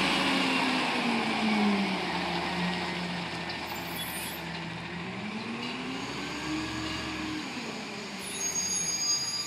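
A front-loader garbage truck's diesel engine revving up and down, its pitch rising and falling twice as it slowly grows quieter. Near the end a high electronic beeping starts, typical of the truck's reversing alarm.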